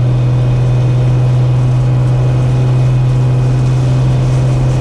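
Cessna 210K's six-cylinder piston engine and propeller running steadily, a constant drone with no change in pitch.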